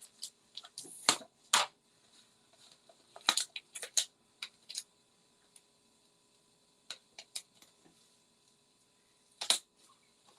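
Scattered small clicks, taps and crinkles of hands working with cardstock and peeling foam adhesive dots off their backing sheet, about a dozen short sharp sounds with quiet gaps between.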